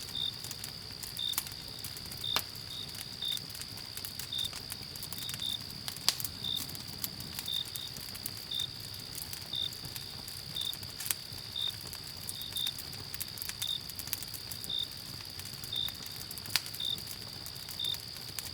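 Night crickets: one continuous high trill with a second cricket chirping about once a second just below it. Scattered sharp clicks of a crackling campfire run over them.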